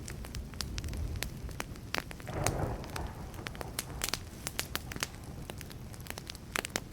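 Wood fire crackling, with frequent sharp pops and snaps over a steady low rumble. There is a brief louder rush about two and a half seconds in.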